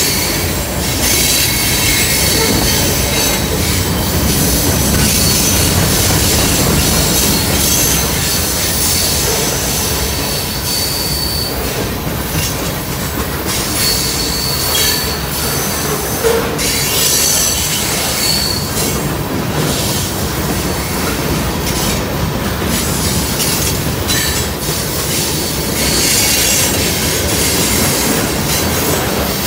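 Freight train cars, tank cars and then centerbeam lumber flatcars, rolling past at close range with a steady rumble and clatter of steel wheels on rail. Thin high-pitched wheel squeals come and go several times as the wheels work through the curve.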